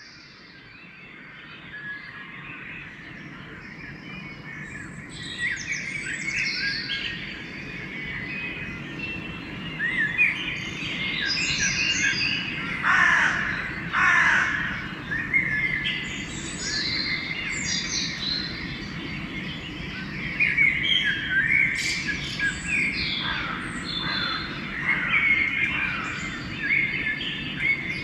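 A pre-dawn bird chorus: many songbirds singing and chirping at once, with crows cawing, including two loud falling calls about halfway through. It fades in over the first several seconds over a low, steady background rumble.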